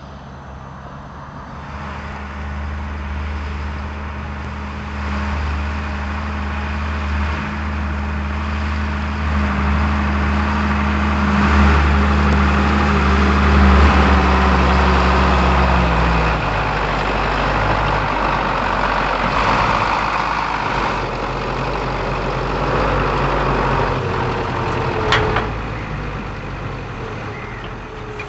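Lamborghini R7 200 tractor's diesel engine working hard while ploughing. It grows louder over the first half, its pitch drops about halfway through, and a single sharp clank sounds near the end.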